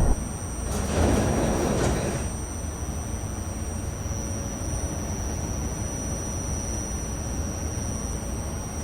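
R68A subway car standing at a station platform: a short burst of noise about a second in, then the stopped car's steady low hum with a faint, steady high whine.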